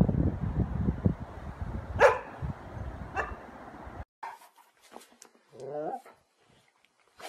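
Dog barking: two sharp barks about two and three seconds in, over a low rumble. The sound then cuts off abruptly to a quieter recording with a short rising dog whine.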